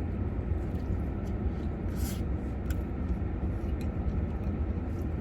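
Close-up chewing of a crispy chicken sandwich: small scattered clicks and a brief crunch about two seconds in, over a steady low rumble.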